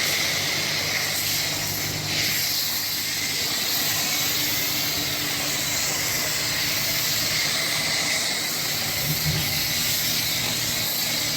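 Pressure-washer dual foam cannon spraying foam soap onto a truck: a steady hiss, with a faint low hum underneath.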